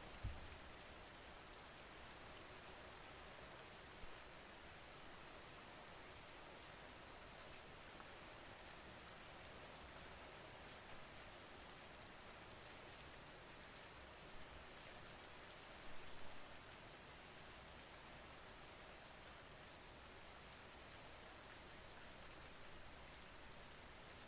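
Faint, steady rain falling, with scattered small drop ticks and a few slightly louder patters.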